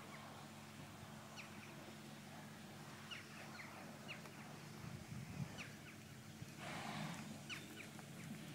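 Faint small birds chirping in short, high, falling notes over a low steady hum, with soft muffled thuds of a horse's hooves on arena sand and a brief rush of noise about seven seconds in.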